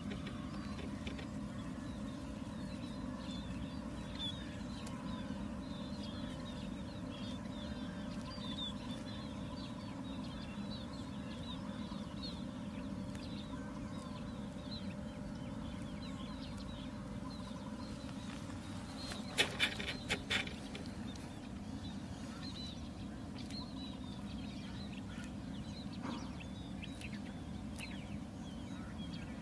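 Outdoor ambience: birds chirping faintly over a steady low rumble. About two-thirds of the way through, a quick cluster of sharp clicks stands out as the loudest sound.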